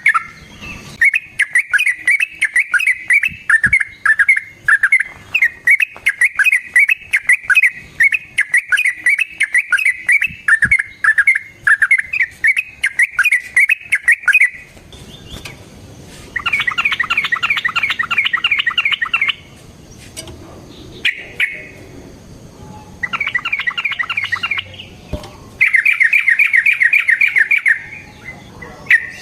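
Yellow-vented bulbul (trucukan) singing: a long run of quick, repeated chattering notes, then, about halfway through, three shorter bursts of very fast trilling with brief pauses between them.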